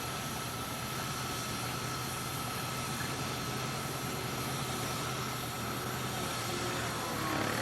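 Steam sawmill machinery running steadily: a continuous mechanical rumble with a thin, steady high whine over it.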